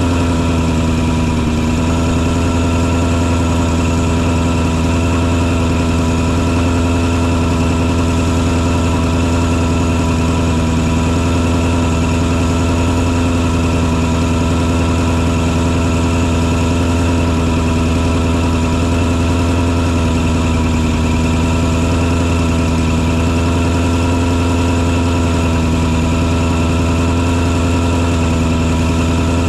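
Engine on a mosquito-fogging truck running at a constant speed: a steady droning hum with several steady tones above it, unchanging throughout.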